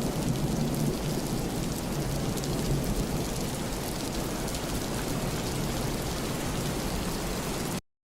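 Steady rain with fine pattering and a low rumble underneath, cutting off suddenly near the end.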